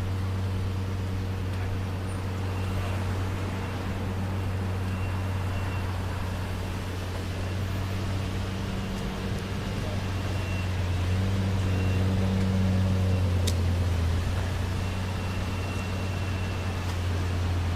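Lexus LFA's 4.8-litre V10 idling steadily, slightly louder for a few seconds past the middle. A single sharp click sounds near the end.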